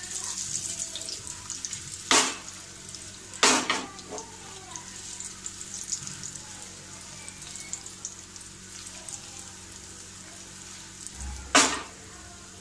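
Paneer-and-potato kofta balls frying in hot oil in a pan, a steady high sizzle. Three sudden louder bursts stand out, two in the first few seconds and one near the end.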